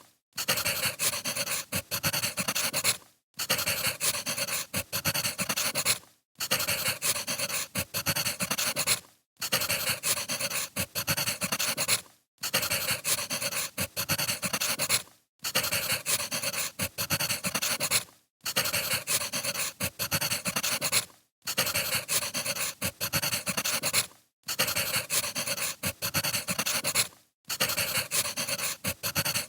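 Crackling wood fire, a recorded clip about three seconds long that loops, with a brief dropout to silence between repeats.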